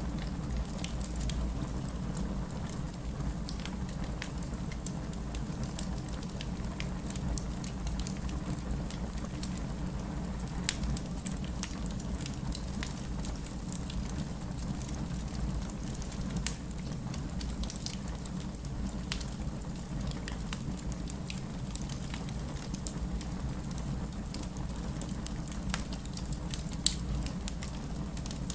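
Wood fire burning in a fireplace: a steady low rush of flame with scattered small crackles and pops of the burning logs, and one sharp, louder pop near the end.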